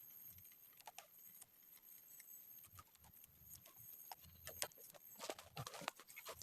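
Faint irregular taps and crackles, growing more frequent and louder in the second half.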